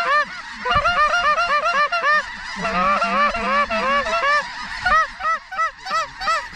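A flock of snow geese calling: a dense, continuous chorus of short, high, yelping honks, many birds overlapping.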